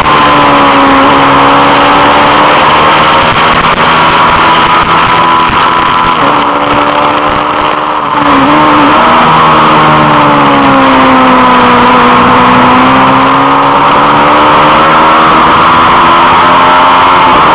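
Honda CB500 parallel-twin racing motorcycle engine at speed, heard onboard over heavy wind noise. Its note falls as the bike comes off the throttle into a corner, changes gear about eight seconds in, sags, then climbs steadily as it pulls down the straight, with another change near the end.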